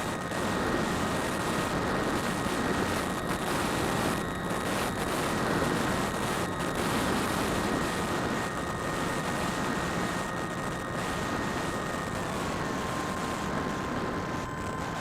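Electric motor and propellers of a small Phantom FPV model aircraft, a steady whine under wind rushing over the onboard keychain camera's microphone. About twelve seconds in the whine steps down to a lower pitch as the motors slow.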